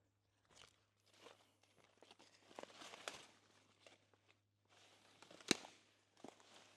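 Footsteps crunching on the ground, unevenly, with one sharp crack about five and a half seconds in.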